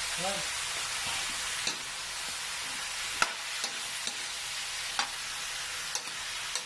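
Raw chicken feet and necks sizzling in hot oil in a wok, stirred with a metal ladle that clicks and scrapes against the pan about six times.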